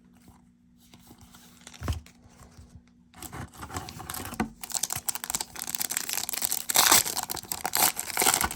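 Foil wrapper of a trading card pack being torn open and crinkled: a dense run of tearing and crackling starting about three seconds in, after a single knock about two seconds in.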